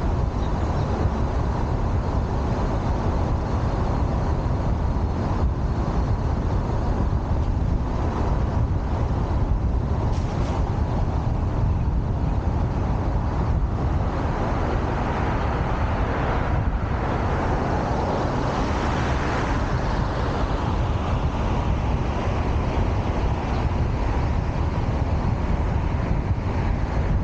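Steady city street traffic noise with a deep, even rumble, swelling a little around the middle.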